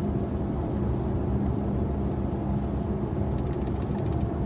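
Steady road and engine noise inside a moving car: a low rumble with a faint steady hum, and a few light ticks about three and a half seconds in.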